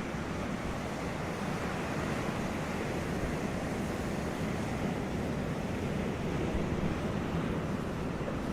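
Ocean surf breaking on a beach: a steady wash of waves, with wind noise on the microphone.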